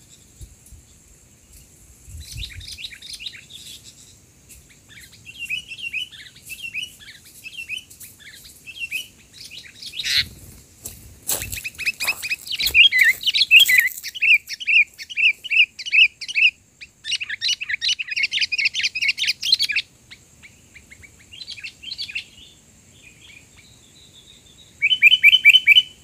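Sooty-headed bulbuls (kutilang) calling loudly in bursts of chirping notes, with a run of quick repeated notes around the middle and dense chatter later on. A few sharp knocks sound about halfway through.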